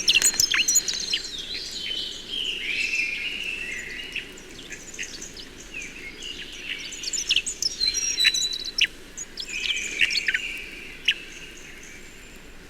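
Hedge sparrows (dunnocks) giving their display notes: clusters of thin, high chirps and quick downward-sweeping notes, thinning out near the end, over a steady low background hiss.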